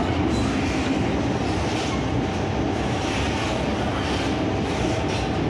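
Steady running noise heard from inside an MTR M-Train electric multiple unit carriage: an even rumble of wheels on rail and the train's motors as it travels along the line.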